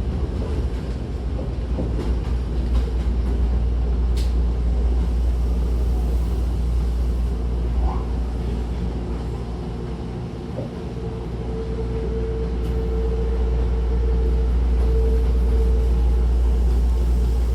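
Interior running noise of a Hankyu 1000-series electric train: a steady low rumble of wheels on rail, easing off about ten seconds in, then growing louder again with a steady whine over the top for several seconds. A brief click about four seconds in.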